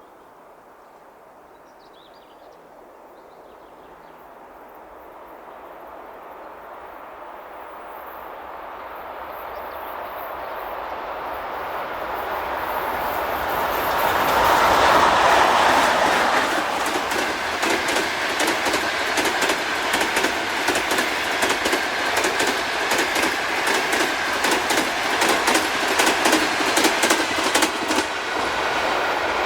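An electric train approaching and growing louder for about fifteen seconds, then passing close by with a continuous rapid clatter of wheels over the rail joints.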